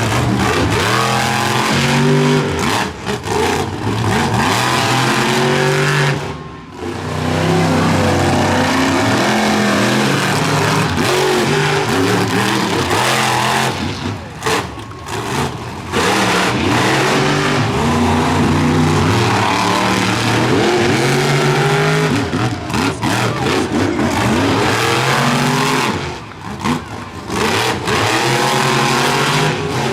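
Monster truck engines revving hard at full throttle, pitch rising and falling with the throttle. The engines briefly drop off three times, about six seconds in, around the middle and near the end.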